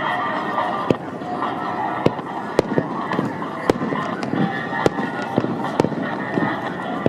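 Fireworks display: aerial shells bursting, a sharp bang about every second over a dense, continuous crackle and rumble of other bursts.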